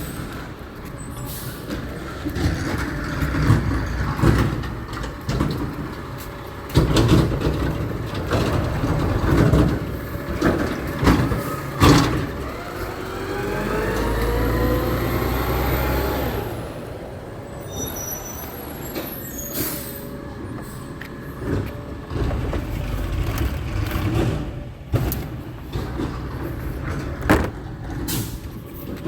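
Garbage truck working: its diesel engine runs under repeated clanks and knocks, and about halfway through it revs with a rising whine and heavy rumble for several seconds before settling back.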